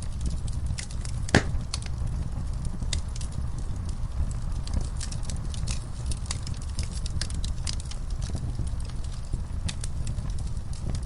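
Wood fire in a fireplace crackling: frequent sharp pops and snaps, with one louder snap about a second and a half in, over a steady low rumble of the burning.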